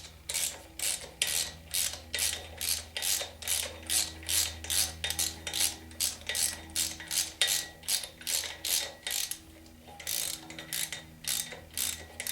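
Hand ratchet clicking steadily as it runs a flywheel bolt into the crankshaft of a Chevy 350 engine, with a short pause about ten seconds in before the clicking resumes.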